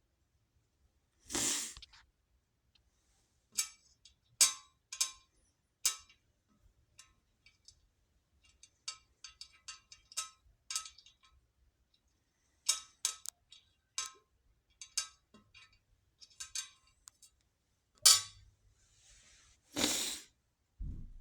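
Small stones clicking and clinking against each other or a hard surface as they are handled, in irregular strokes, sometimes in quick runs. There is a louder rustle of handling about a second in and another near the end.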